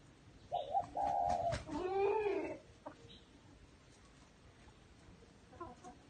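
A loud bird call in three parts: two short, level notes followed by a longer note that rises and falls. A fainter call is heard near the end.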